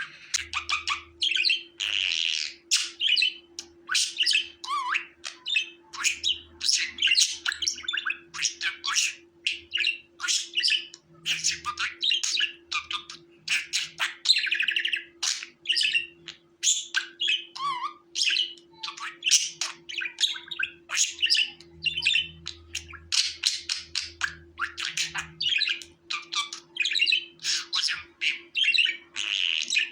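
Budgerigars chirping and warbling in a fast, unbroken stream of short chirps and squawks, over a faint steady hum.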